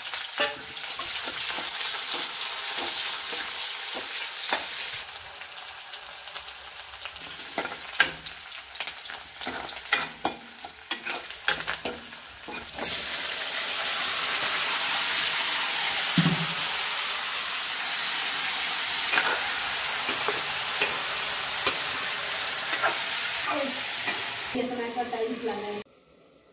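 Sliced onions sizzling in hot oil in a kadhai, with a spatula clinking and scraping on the pan. About 13 seconds in, cauliflower florets and potato pieces are tipped into the oil and the frying sizzle becomes louder and steady. It stops suddenly near the end.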